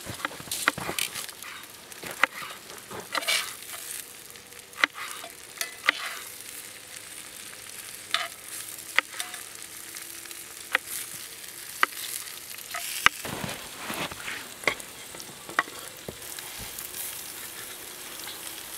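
Food frying in olive oil in a cast iron skillet, a steady sizzle scattered with sharp clicks and knocks.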